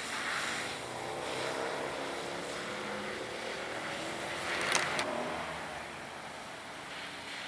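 Mercedes-AMG V8 engine running on the track, its pitch rising and falling with the revs, with a brief sharp burst of noise a little under five seconds in.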